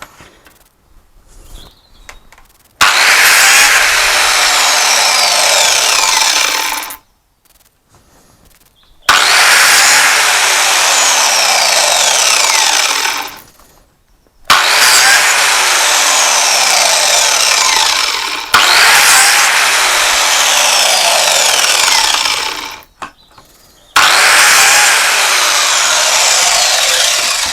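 Biscuit (plate) joiner cutting slots into wooden drawer-door fronts: four runs of several seconds each, with short pauses between them. The third run is the longest.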